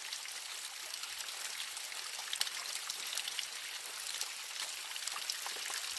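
Spring-fed water of a small waterfall and stream trickling and splashing: a steady hiss with scattered small drip ticks.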